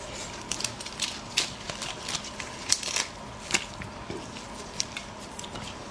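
Crisp cracking and crunching of a large tiger prawn's shell being broken and eaten, as a series of sharp, irregular crackles.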